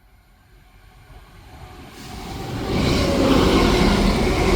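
East Midlands Railway Class 170 Turbostar diesel multiple unit approaching and passing through the station without stopping. It grows louder over the first three seconds, then runs at a steady level.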